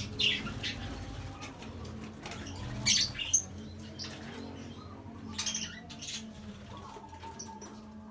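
Scattered short, sharp chirps and rustles, the loudest about three seconds in and again about five and a half seconds in, over a steady low hum.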